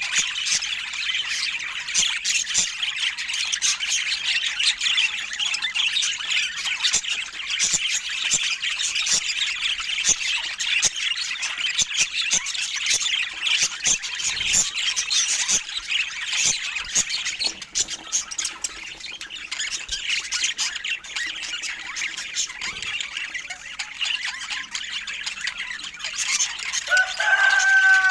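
Budgerigars chattering and warbling continuously, a dense stream of high squawks, chirps and clicks. Near the end one louder, clearer call stands out.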